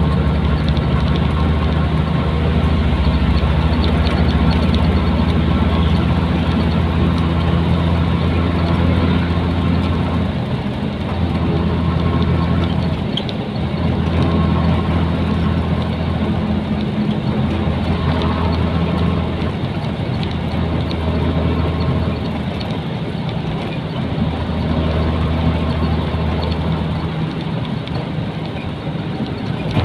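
Nissan Diesel container truck's diesel engine running while the truck drives, heard from inside the cab with road noise. The engine note drops off and comes back several times.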